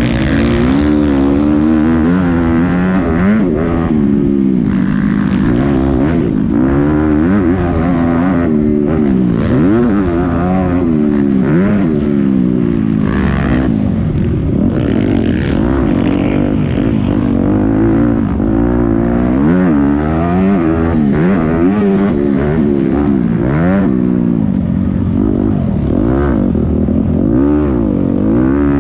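Several motocross motorcycles racing, their engines revving up and dropping back again and again with throttle and gear changes, the notes overlapping.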